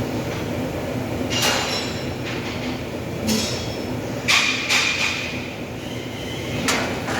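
Five sharp metallic clanks on sheet-metal panel work, each ringing briefly, over a steady workshop hum. The loudest pair comes about four and a half seconds in.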